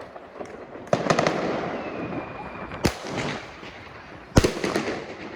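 Fireworks going off: a quick cluster of cracks about a second in with a long rushing tail, a sharp bang just before three seconds, then the loudest bang at about four and a half seconds, followed by a run of crackles.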